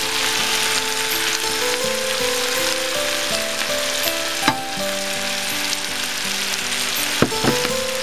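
Stir-fry sizzling steadily in a nonstick pan as fish fillet, potatoes and broccoli cook, with the spatula clicking against the pan a few times, about halfway through and near the end. Soft background music with held notes plays underneath.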